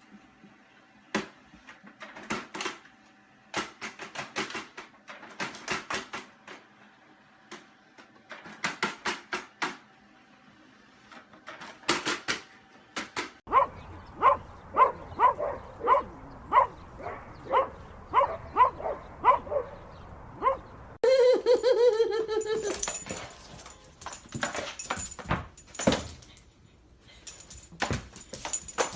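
A dog barking in a quick run of short, evenly spaced yips, about two a second, then a longer call that falls in pitch. Sharp clicks and taps come before and after.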